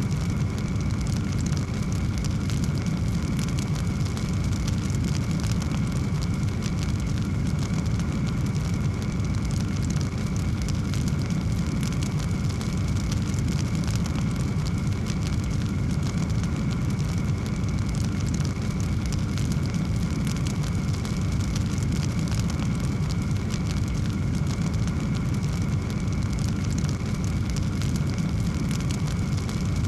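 Wood fire burning in a fireplace: a steady low rumble with fine crackling.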